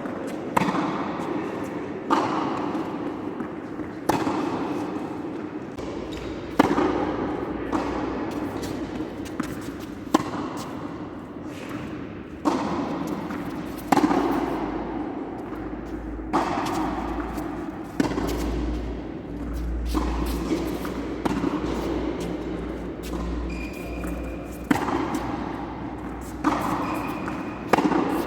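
Tennis rally: a ball struck back and forth by rackets, a sharp hit every one to two seconds, each trailing off in echo.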